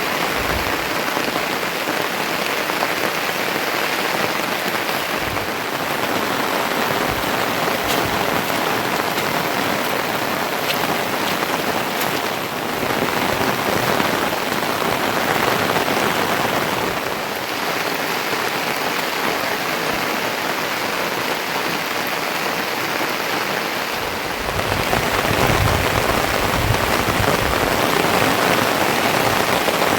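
Steady heavy rain, an even dense hiss. A low rumble joins in the last few seconds.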